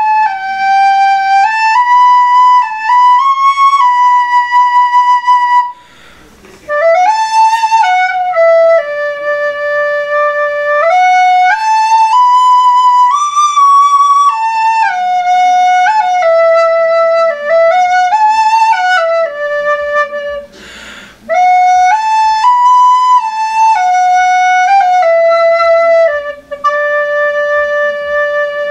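A recorder playing a single-line melody of held and stepping notes, with two short breaks about six seconds in and about two-thirds of the way through.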